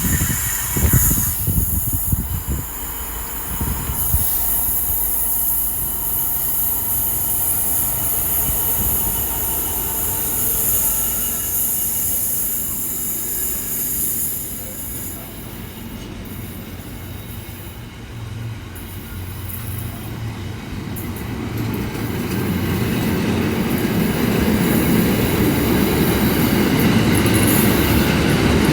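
Train on the rails through a station: a high-pitched wheel squeal over the first half that dies away, then a low rumble that grows louder toward the end.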